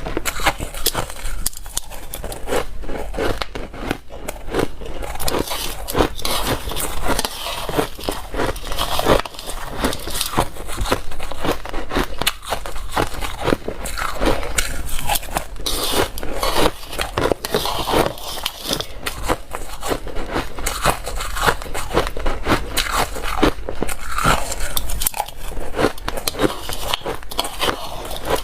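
Close-miked biting and chewing of ice: rapid, continuous crunching and cracking as the ice breaks between the teeth.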